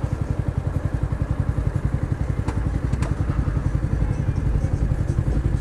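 Yamaha R125's single-cylinder four-stroke engine idling with a steady rapid chug. Two faint clicks come about two and a half and three seconds in.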